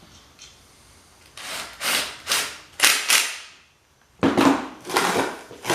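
Reassembled electric pump motor, fitted with new bearings, being spun by hand in a series of short whirring strokes that each fade out quickly: the rotor turns freely.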